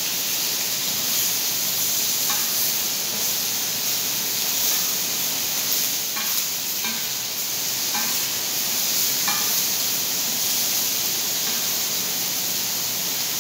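Chicken pieces sizzling on a round steel plate over a gas burner, a steady hiss. A few light clicks of metal tongs lifting the pieces off come through it.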